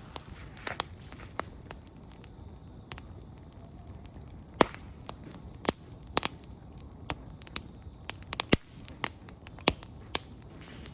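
Firewood crackling in an open campfire, with irregular sharp pops, the loudest about four and a half seconds in.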